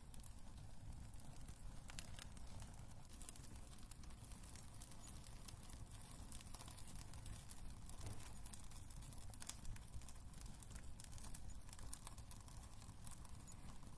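Wood fire burning in a fireplace, with scattered crackles and pops over a low steady rumble.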